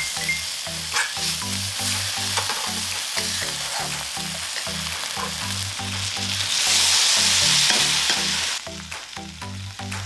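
Oysters and scallions sizzling in butter and soy sauce in a stainless-steel wok, stirred with a spatula that clicks and scrapes against the pan. A louder hiss lasts about two seconds from about six and a half seconds in, then the sizzle drops away near the end. Background music with a steady low beat runs underneath.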